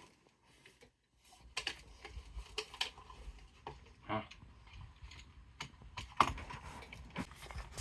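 Irregular light clicks and taps, like small plastic or metal parts being handled, starting after about a second of near silence.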